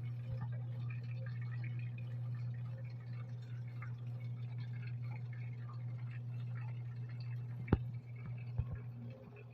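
Top-load automatic washing machine filling with water: a steady low hum with water trickling into the tub, then a sharp click near the end followed by a couple of soft knocks. The inflow is weak, which the technician puts down to low water pressure.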